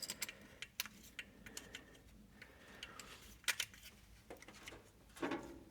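Scattered light clicks and small knocks of hands working a spark plug wire boot onto a plug beside a tight header tube, with slightly louder rattles about three and a half seconds in and again near the end.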